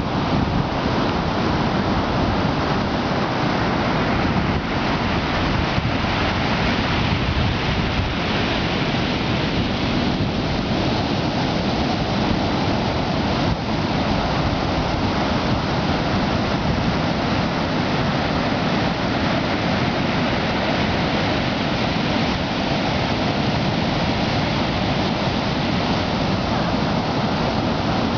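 Rough ocean surf, the waves breaking in a steady wash of noise.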